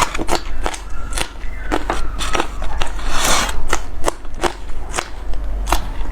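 Close-miked mouth sounds of eating: biting and chewing food in a quick, irregular run of wet clicks and crunches, with a brief noisier burst about halfway through.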